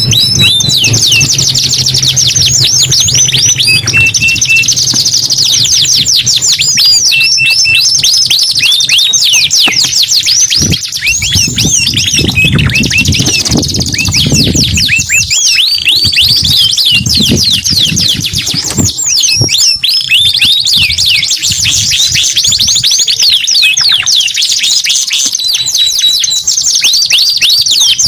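Domestic canaries singing almost without pause: fast trills of rapidly repeated, falling high-pitched notes.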